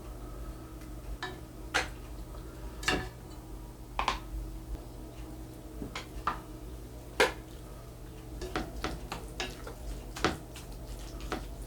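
Metal spoon clinking and scraping against a dish while rice is mixed into leftover Jjapagetti black-bean sauce. The strikes are scattered at first and come in a quicker run near the end.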